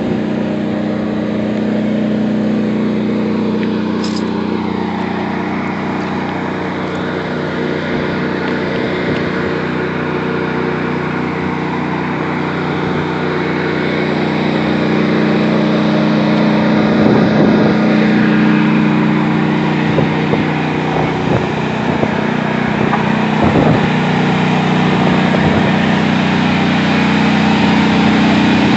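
The engine of a wrecked, battle-damaged tank running steadily at an even speed. There are a few rougher, slightly louder moments in the second half.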